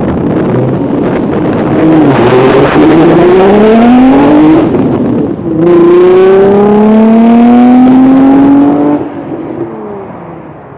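Infiniti G35's 3.5-litre VQ35DE V6 with Motordyne ART pipes and an Invidia Gemini resonated cat-back exhaust, revved hard twice. The pitch climbs steadily each time, with a short drop between the two pulls, then falls back toward idle near the end.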